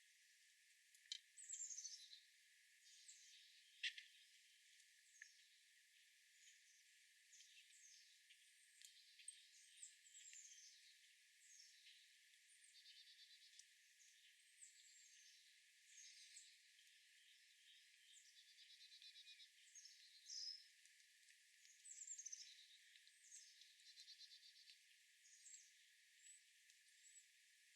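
Small songbirds chirping faintly, a steady string of short, sharply falling chirps with a few quick trills mixed in.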